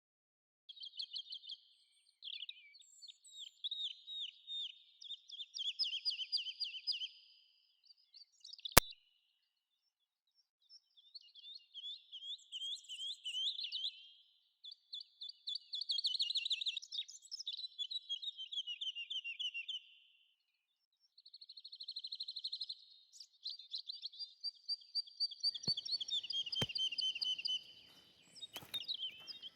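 Songbirds singing in a spring forest: repeated short, trilling song phrases, with several birds overlapping. There is a single sharp click about nine seconds in, and faint crackling near the end.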